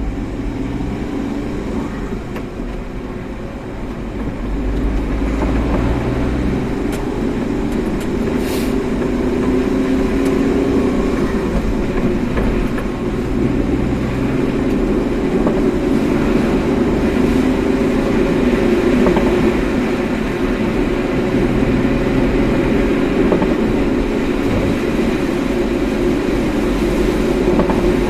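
A car driving, with a steady low road and tyre rumble that grows louder about five seconds in and then holds.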